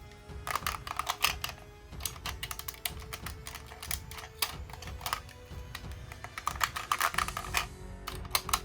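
Hard plastic parts of a Megazord toy clicking and snapping in quick, irregular clusters as it is handled and fitted together, over background music.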